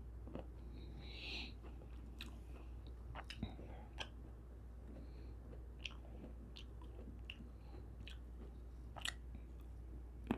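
A person chewing fruit, grapes, close to the microphone: soft wet mouth sounds with irregular sharp clicks, over a faint steady low hum.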